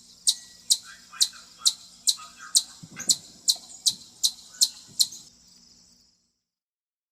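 Chipmunk giving its repeated high-pitched 'chip' alarm call, about two sharp chirps a second, which stops about five seconds in.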